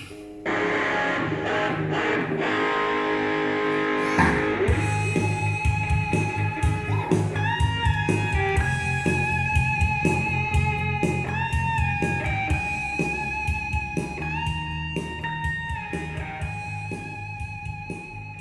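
Playback of a live band's soundcheck recording: a guitar starts about half a second in, with drums and bass coming in about four seconds in, and a held lead melody with vibrato over them. The mix is a rough one, not yet balanced.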